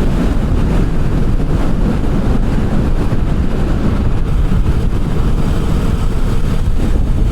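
Kawasaki Vulcan 650 motorcycle cruising at highway speed in sixth gear, around 83 mph: a steady low rush of wind on the microphone mixed with engine and road noise.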